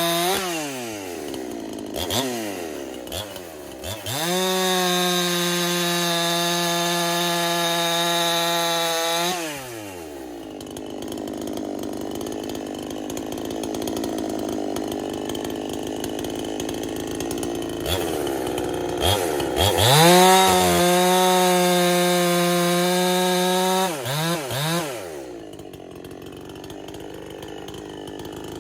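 Big-bore Husqvarna 372 clone chainsaw, its base gasket deleted for more power. It revs up to full throttle and holds a steady high-pitched scream for several seconds, then drops back to idle. This happens twice, with short throttle blips in between.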